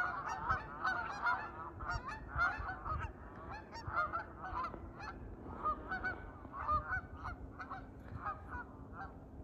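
Several geese honking, many short calls overlapping one another in a steady run, thinning a little in the second half.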